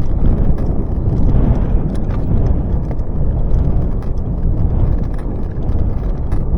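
A bicycle riding along with wind buffeting the microphone and the tyres rolling, making a steady low rumble, with a few faint clicks.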